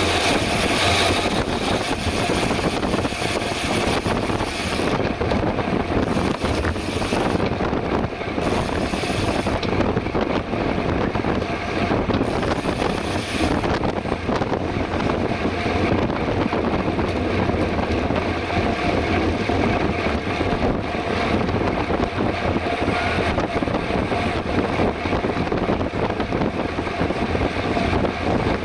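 Wind buffeting the microphone of a camera carried on a bicycle ridden at race pace: a steady, loud rush with a low rumble.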